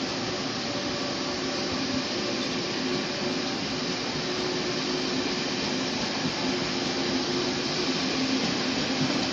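Electric passenger train running along the platform: a steady rolling noise with a low hum under it, a little louder near the end.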